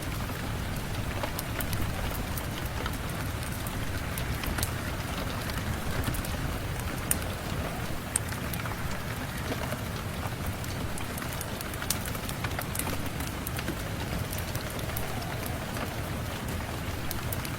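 Rain-and-fireplace ambience: steady rain with a low rumble beneath it, and sharp crackles scattered through it.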